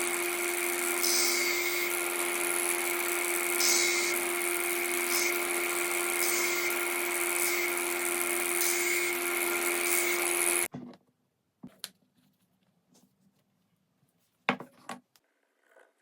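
Electric power tool running steadily while working wood, with a constant hum and passes that come and go every second or two. It stops abruptly about two-thirds of the way through, followed by a few light knocks of wood being handled.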